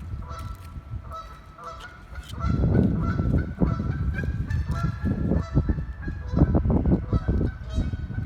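Geese honking repeatedly, many short calls overlapping. From a couple of seconds in, wind rumbles on the microphone.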